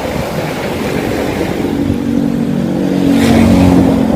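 A motor vehicle's engine over a steady rush of road and wind noise. The engine's low, steady note grows louder from about a second and a half in, as the vehicle comes close.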